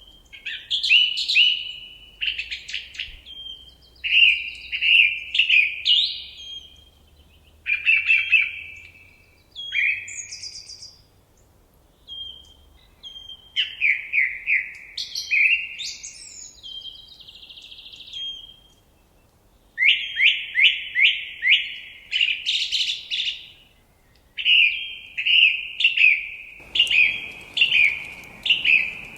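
A songbird singing loud phrases of rapid, repeated chirping notes, with short pauses between phrases. A faint steady hiss comes in near the end.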